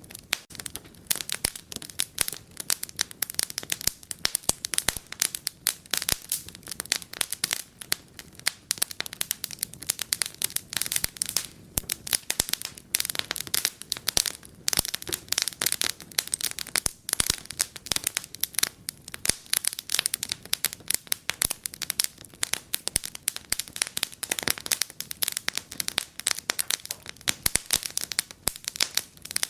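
Wood fire crackling in a fireplace: a dense, irregular stream of sharp pops and snaps with a soft hiss beneath.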